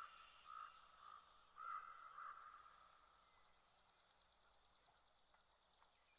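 Near silence on open water, with a few faint bird calls in the first two seconds or so.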